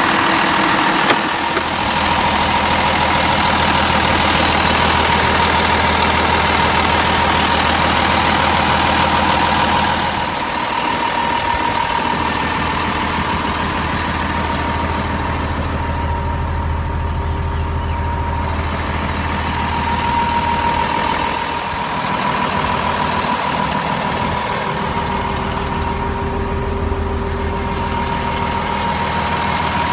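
Cummins ISM inline-six diesel in a Peterbilt 320 garbage truck running steadily, with a steady high whine over the engine. It eases slightly in level about a third of the way through, then shifts again about two-thirds in.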